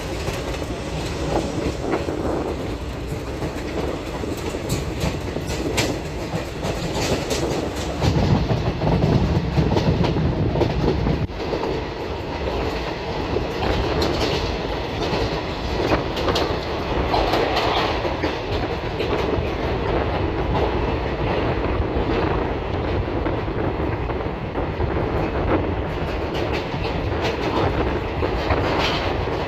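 Train running along the track: a steady rumble with the wheels clattering over the rail joints. The low rumble grows louder for a few seconds about eight seconds in.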